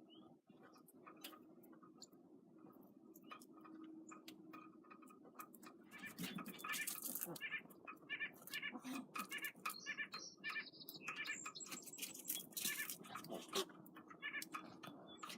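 Short, high-pitched animal calls repeated in quick runs from about six seconds in, over scattered sharp clicks or crunches.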